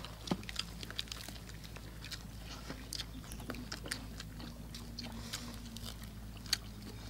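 Close-up chewing and biting of crispy deep-fried chicken legs and lettuce, with many short crisp crunches and crackles scattered throughout.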